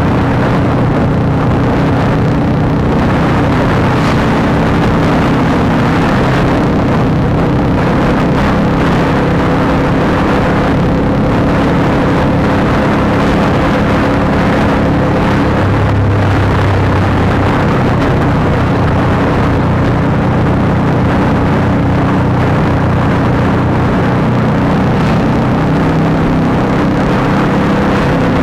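Honda CBR150R's single-cylinder engine running through an aftermarket Akrapovic exhaust while riding, its pitch holding fairly steady with a brief change about halfway through.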